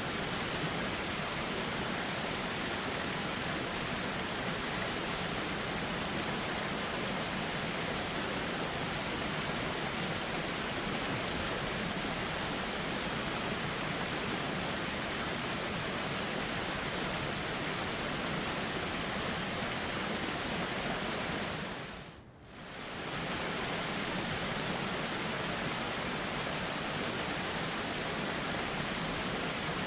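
Steady rush of a flowing river. It briefly fades down and back up about two-thirds of the way through.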